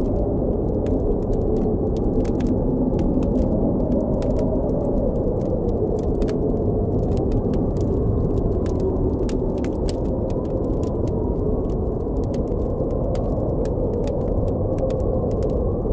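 Blizzard wind blowing steadily with a low, slowly wavering moan, over a campfire crackling with frequent sharp pops.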